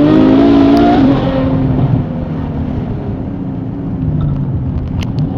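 Ferrari F12's V12 through a full IPE exhaust with the valves open, accelerating hard with rising pitch, then backing off about a second in and running on quieter and steadier.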